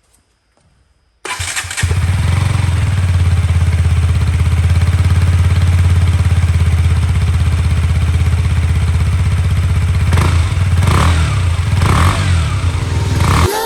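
KTM Duke 125's single-cylinder four-stroke engine running loud through an Akrapovic-style aftermarket exhaust, coming in suddenly about a second in and idling with an even beat, then given a few short revs near the end.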